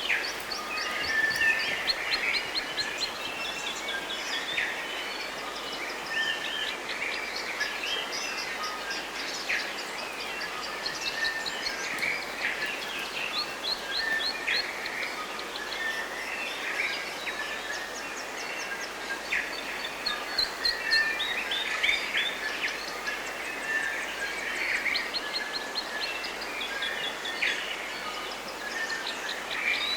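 Dense chorus of many birds singing, full of quick chirps and trills, over a steady background hiss.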